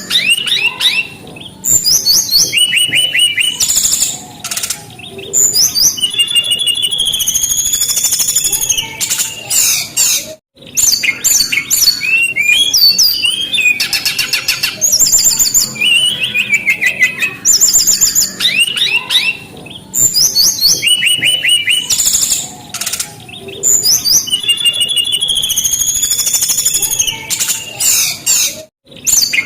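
Brown-chested jungle flycatcher (sikatan rimba dada coklat) singing vigorously: a fast, varied song of high clear whistles, slurred notes and rapid trills. It breaks off for a moment twice.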